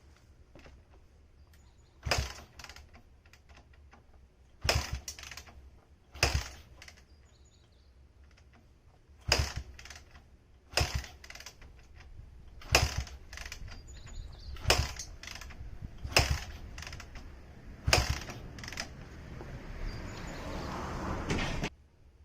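Honda Ape 50's kick-starter being kicked over and over: nine sharp mechanical knocks, one every couple of seconds, as the engine is turned over after a year standing. Near the end a rising rushing noise builds for a few seconds, then cuts off abruptly.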